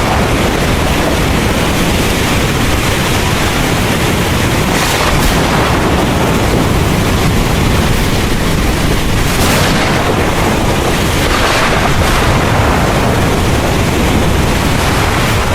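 Heavy rain pouring steadily, with thunder rumbling low underneath.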